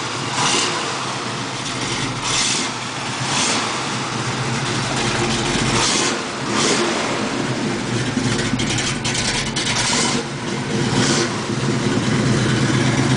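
V8 engine of a 1968 Ford Mustang GT fastback idling, with short revs every second or two.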